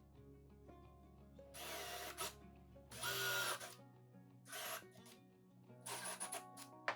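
Power drill running in four short bursts, the loudest about three seconds in, over quiet background music.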